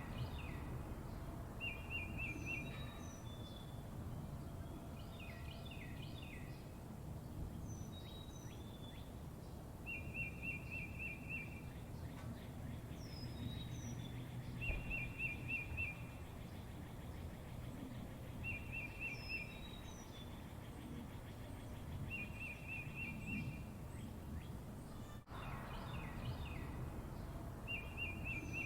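Songbirds calling, one repeating a short, rapid trill roughly every four seconds, with other high chirps in between, over a steady low background rumble.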